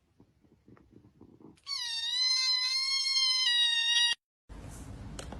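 A cat giving one long, drawn-out meow, about two and a half seconds long and cut off abruptly. Faint soft ticks come before it, and a low background hiss follows after a short gap.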